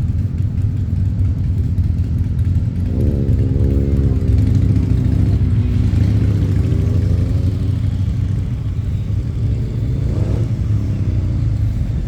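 Motorcycle engines running at low revs. One bike's engine note rises about three seconds in and holds for a few seconds, and another rises briefly about ten seconds in, as bikes ride past.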